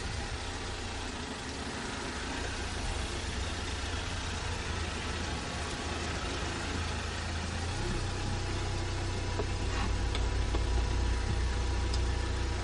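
Volkswagen Golf Mk3 engine running at low, steady revs, growing a little louder in the second half.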